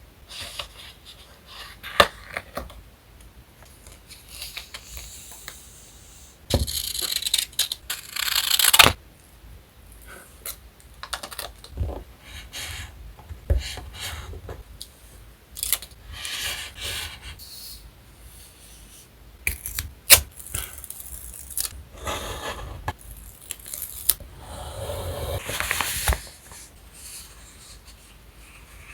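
Close-up paper-crafting sounds: stickers and paper being peeled, torn and rustled in several stretches of a second or more, with scattered light taps and clicks on the desk.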